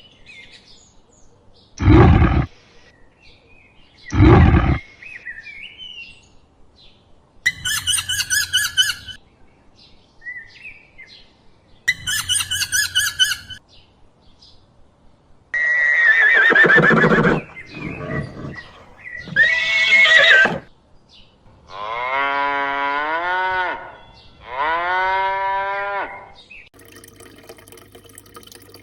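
A series of farm-animal calls from several different animals. First come two short, loud low calls, then two bursts of rapid chattering calls, then a few longer pitched calls that rise and fall. The last two are long, wavering calls.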